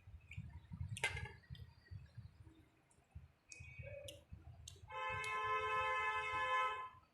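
Soft clicks and wet sounds of eating rice and curry by hand, with chewing. From about five seconds in, a steady pitched tone sounds for about two seconds and stops.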